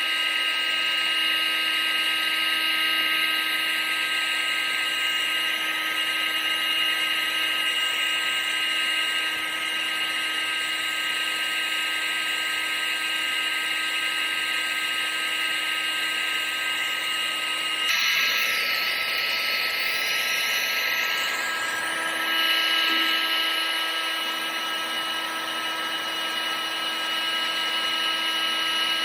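Vacuum cleaner running continuously: a steady high motor whine over the hiss of rushing air. The tone shifts slightly about two-thirds of the way through, then carries on.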